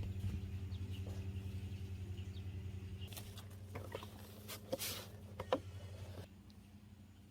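A small motor running with a low, pulsing hum that stops suddenly about six seconds in, with a few clicks and knocks just before it stops.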